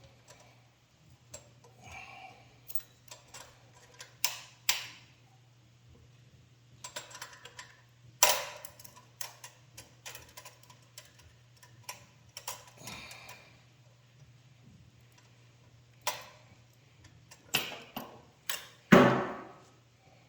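Hand tools clinking and clattering at irregular intervals, as when rummaging for a tool, with a few louder knocks about eight seconds in and near the end, over a faint steady low hum.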